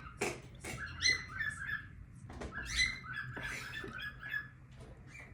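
Pet parrots chirping in short repeated calls, with a few brief rustling scrapes among them.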